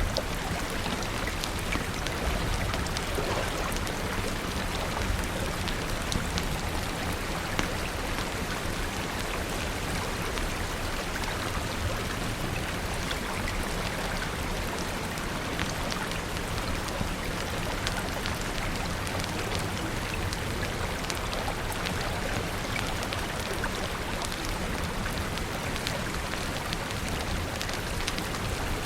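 Steady rain falling, with many small sharp ticks of drops striking a surface over a dense, even wash of noise.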